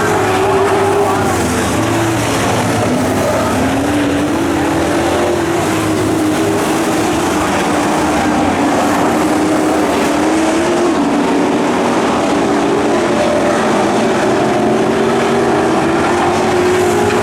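Racing truck engines on a dirt oval running hard, a loud continuous drone whose pitch rises and falls as the trucks go through the turns, with more than one engine heard at once in places.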